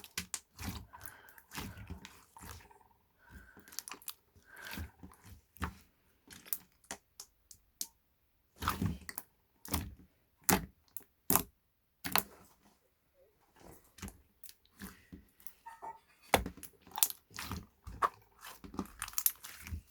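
Irregular close-up clicks, taps and crunching sounds, in uneven clusters with short pauses.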